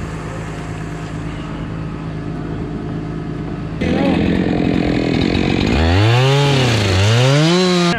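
A machine engine runs steadily, then about four seconds in a chainsaw cuts in loud, and near the end its throttle is revved up and let down twice.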